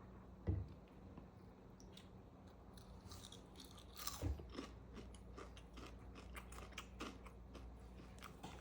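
A person chewing a mouthful of food, with faint wet clicks and smacks of the mouth. There is a soft knock about half a second in.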